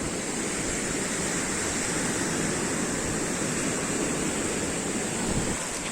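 Steady rushing water, an even hiss and rumble with no distinct strokes.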